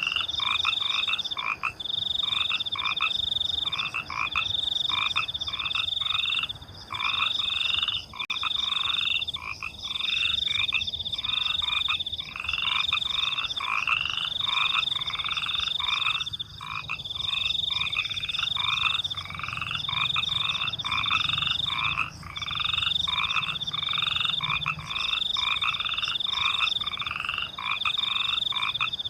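A night chorus of frogs croaking in quick repeated short calls, under a high, steady trill of crickets that comes in pulses of about a second, over and over without a break.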